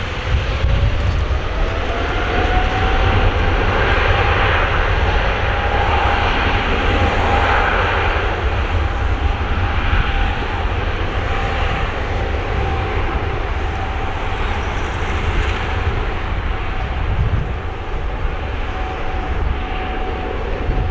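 Boeing 777-300ER jet engines at high thrust for takeoff: a steady whine that rises in pitch over the first few seconds and then holds, over a loud deep rumble.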